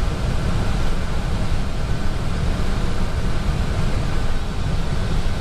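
Steady cockpit noise of an Airbus A320 in flight on descent: an even rush of airflow and air conditioning, heaviest in the low end, with a faint steady hum.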